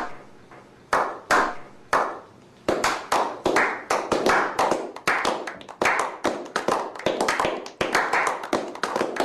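Hand clapping that starts as a slow clap, single sharp claps about a second apart each with a short echoing tail, then quickens about three seconds in into denser, overlapping clapping.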